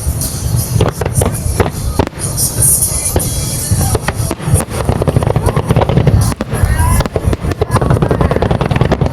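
Aerial fireworks shells bursting in a dense, rapid run of booms and crackles over a continuous low rumble, with music playing alongside.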